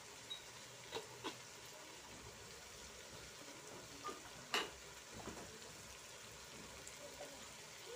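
Biryani base of onions and tomatoes sizzling faintly and steadily in a pot on a gas stove, with a few light knocks, the loudest about halfway through.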